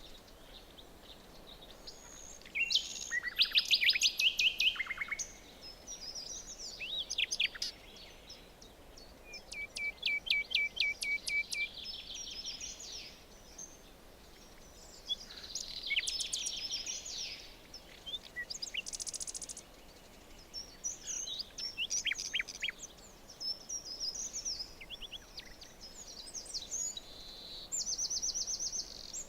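Several songbirds singing in a forest, one phrase after another: varied whistled phrases and quick trills, over a faint steady background hiss.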